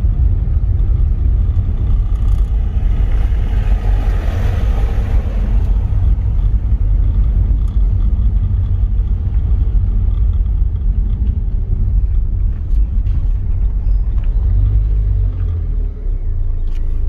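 Vehicle driving over a cobblestone street: a loud, steady low rumble of the road and running gear, with a brief swell of hiss about four seconds in.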